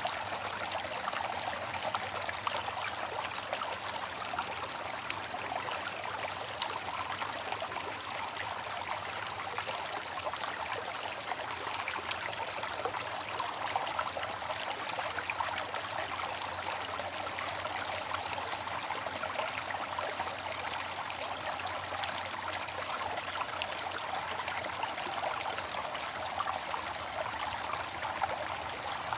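Water fountain running steadily, its water trickling and splashing into a pool.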